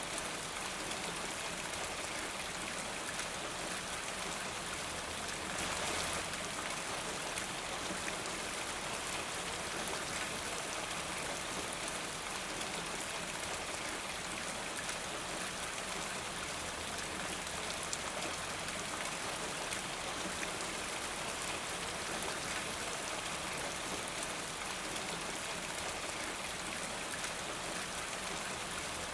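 Steady rain falling, an even hiss of drops, with a brief swell about six seconds in.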